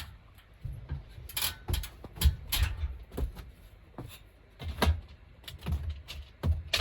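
A series of irregular knocks and clunks, about one or two a second, with dull thuds under them, as of things being handled and set down during installation work.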